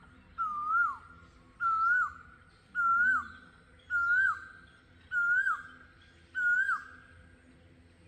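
A bird calling repeatedly: a single whistled note, six times about once a second, each one swelling up and then dropping sharply at its end.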